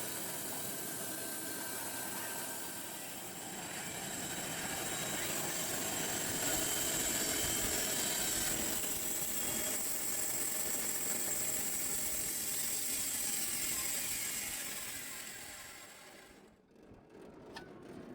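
Band sawmill running on its 5.5 kW electric motor, the belt-driven blade cutting through a log with a steady mechanical noise and a thin high whistle. It swells a few seconds in and fades out near the end.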